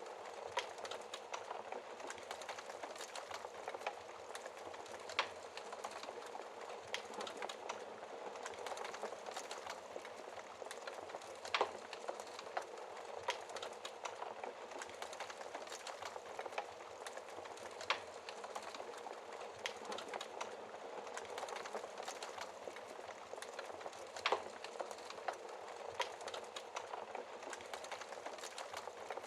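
Wood fire burning in a fireplace: logs crackling over a steady hiss, with many small ticks and a sharp, louder pop about every six seconds.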